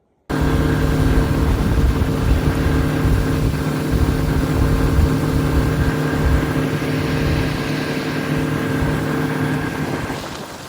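Boat's outboard motor running steadily at speed, with heavy wind rumble on the microphone; it cuts in suddenly and eases off a little near the end.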